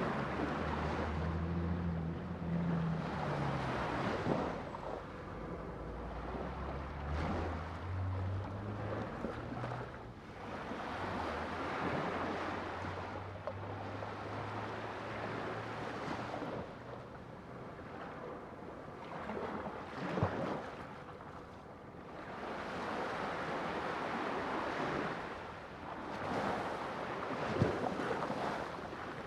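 Sea waves washing onto a shore, swelling and falling back every few seconds. Low sustained tones that change pitch in steps sit beneath them during the first half.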